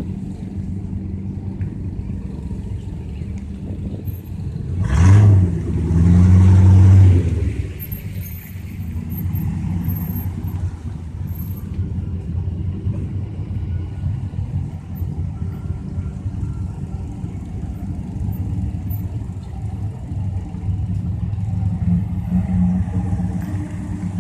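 Heavy truck engines running steadily in a convoy. About five seconds in, a truck air horn sounds a short blast and then a longer one lasting a second and a half, louder than the engines.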